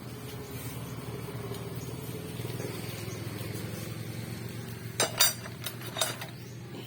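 Small 50cc engine running steadily at a low, even pitch. A few sharp knocks come about five to six seconds in.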